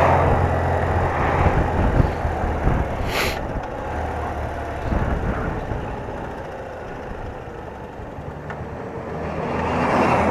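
BMW R80RT's air-cooled flat-twin engine running at low speed under road and wind noise, easing off through the middle and picking up again near the end. A short hiss about three seconds in.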